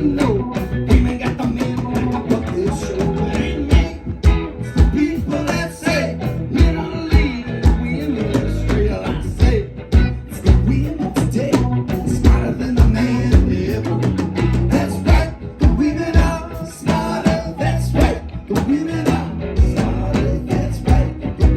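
Live band playing an upbeat song with singing, guitar and a steady drum beat.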